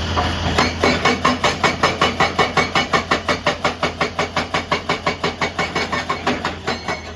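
Excavator-mounted hydraulic rock breaker hammering on rock, about four blows a second over the diesel engine's steady hum. The blows start about half a second in, fade gradually and stop near the end.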